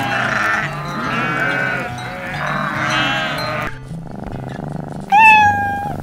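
Goats bleating three times in a row, each call wavering, over background music. About five seconds in, a kitten gives one loud meow that rises and then holds steady.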